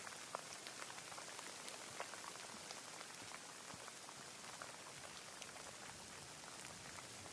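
Rain falling steadily: an even hiss with many separate drops ticking.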